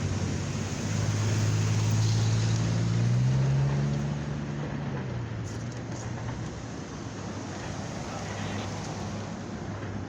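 A motor vehicle's engine running past, rising in pitch and loudest a few seconds in, then fading away over steady outdoor noise.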